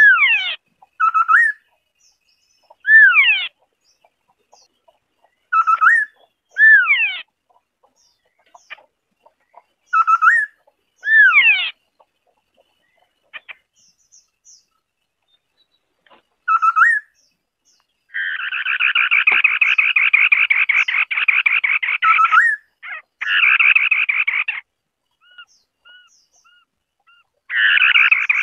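White-browed scimitar babbler singing: short whistled phrases with sweeping slides, given in pairs with pauses between. About two-thirds of the way through come long, fast rattling chatters.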